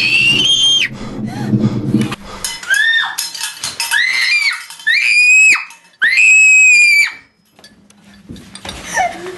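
About five high-pitched screams in a row, each under a second, some sliding up in pitch as they start; the last two are the loudest and longest. A low drone sounds under the first scream and stops about two seconds in.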